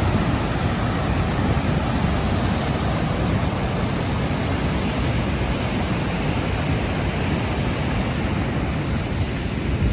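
Steady rushing of Fukiware Falls, a broad waterfall pouring over rock.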